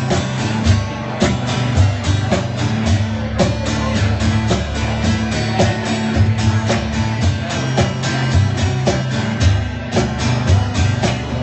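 Live rock band playing an instrumental passage between vocal lines: guitar over a steady drum beat and bass.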